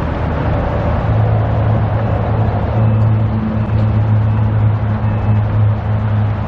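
Road traffic and a vehicle engine running, with a steady low hum that comes in about a second in and holds.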